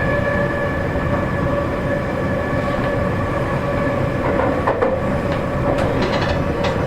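Seibu 40000 series train heard from inside a car while running. There is a steady whine from its Toshiba permanent-magnet synchronous motor drive over rumbling wheel noise, and a few rail-joint clicks and rattles come in the second half.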